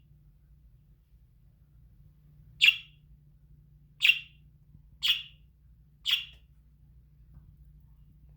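A pet bird giving four short, sharp, high-pitched calls about a second apart, over a faint steady low hum.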